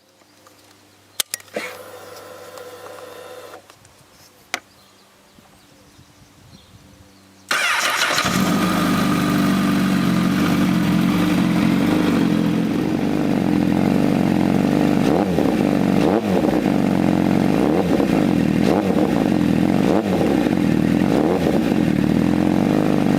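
Honda CBR1000RR's inline-four with an Akrapovič slip-on exhaust being started: a faint hum and a few clicks, then the starter and the engine catching suddenly about seven seconds in and settling into a steady idle. In the second half the throttle is blipped over and over in a regular rhythm.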